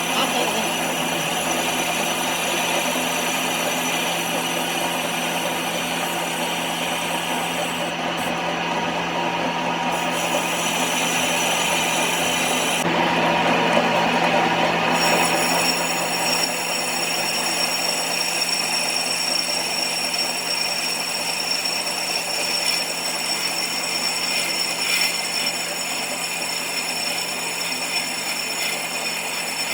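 A metalworking power tool or machine running steadily, with a constant noise and a steady hum and whine that hardly change.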